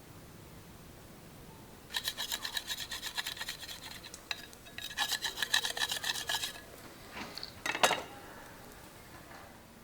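Two runs of fast rasping strokes, about seven a second, each lasting one to two seconds, then a single sharp knock near the end.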